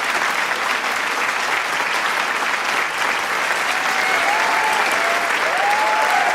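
Large crowd applauding with dense, steady clapping, with a few voices shouting and cheering over it from about four seconds in.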